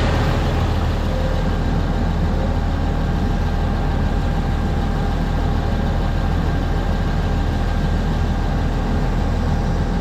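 Diesel engine of an earthmoving machine running steadily at an even speed.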